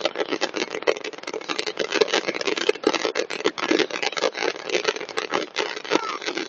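Fireworks going off in a dense, continuous barrage of rapid crackles and pops, many a second without a pause.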